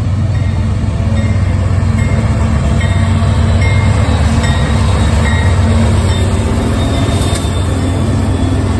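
CSX diesel-hauled freight train passing: a steady low drone from the locomotives with rolling wheel-on-rail noise, and a few brief high-pitched wheel squeals.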